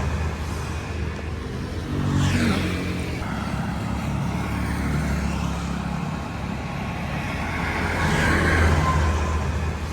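Road traffic: motor vehicles running steadily, with one passing about two seconds in and another near the end.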